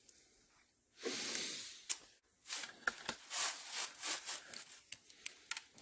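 Rosin-core solder and flux sizzling and crackling against a hot solder-gun tip as a joint on a relay-socket terminal is heated: a hiss about a second in, then uneven crackly bursts with sharp clicks until near the end.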